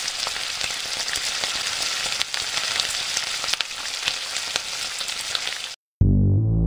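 Food frying in hot oil: a steady sizzle with many small crackles and pops, which stops abruptly near the end. Keyboard music starts just after it.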